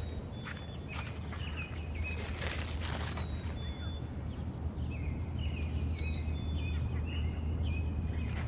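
Small birds chirping in short, high calls, again and again, over a steady low rumble. A brief rustling about two to three seconds in.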